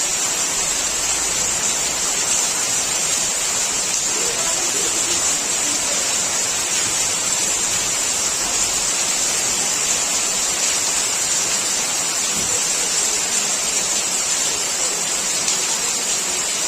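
Heavy rain pouring down steadily, an even hiss that doesn't let up.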